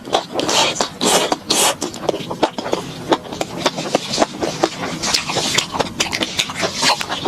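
Close-miked chewing of fried skewered food, with many sharp crunches and wet mouth clicks in quick, irregular succession.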